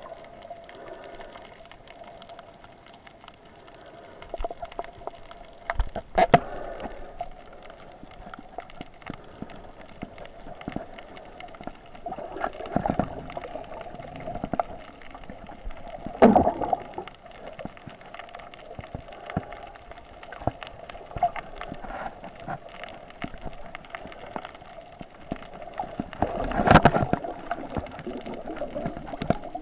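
Water gurgling and sloshing, heard through a waterproof camera, with a steady hum, scattered clicks and knocks, and a few louder gushes of water, the strongest near the end.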